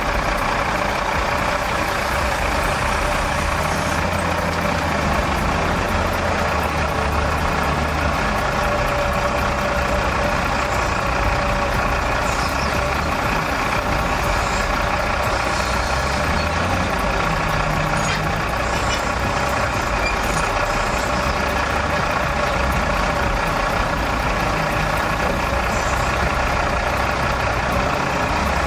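Heavy vehicle engine running steadily, its low hum shifting in pitch a few times.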